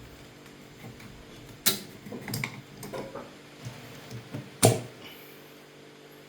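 Two sharp knocks about three seconds apart, with lighter clattering between them, over a steady low hum.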